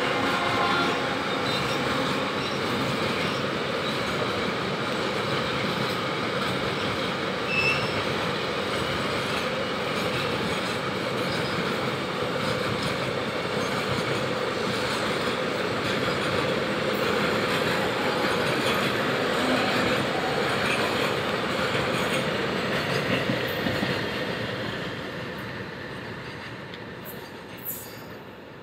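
Container wagons of a long freight train rolling past, their steel wheels running steadily on the rails, fading away over the last few seconds as the train draws off.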